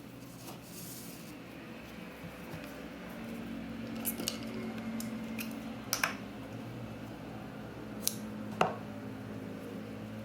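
Objects being handled while packing orders: a few sharp clicks and taps, the loudest two about eight seconds in, over a steady low hum.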